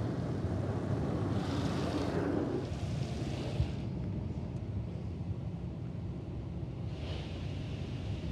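Automatic car wash working over the car, heard from inside the cabin: a steady low rumble with swells of spraying hiss about a second in and again near the end.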